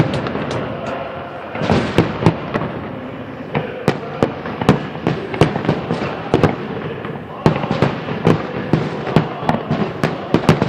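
Fireworks salute: many sharp bangs of shells bursting in quick, irregular succession over a continuous noisy rumble, growing denser and louder about one and a half seconds in and again about seven seconds in.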